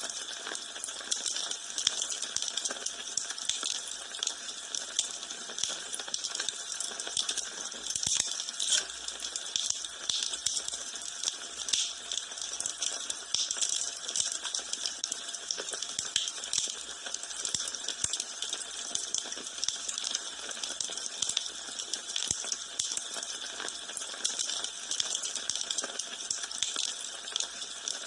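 Wood fire in a fireplace crackling: a steady hiss dotted with many small, irregular pops and snaps.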